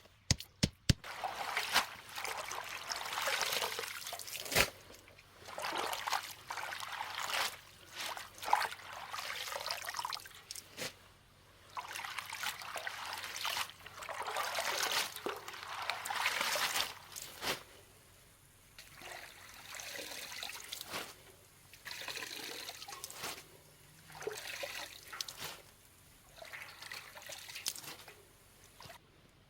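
Water trickling and pouring in repeated spurts of one to three seconds with short pauses between them, with a few sharp clicks near the start.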